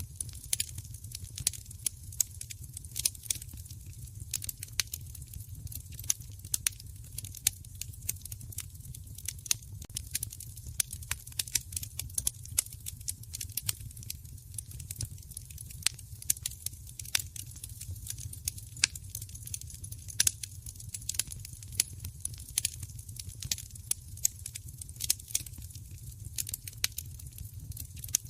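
A wood fire crackling, with frequent irregular sharp pops over a steady low rumble.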